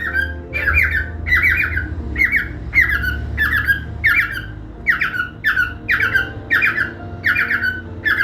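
Cockatiel chirping over and over in a quick, even series, about two short, sharp calls a second.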